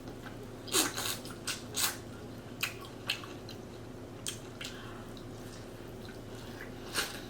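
Close-miked mukbang eating of a buttery shrimp seafood boil: irregular wet mouth clicks, smacks and chewing, about ten in all, with pauses between them.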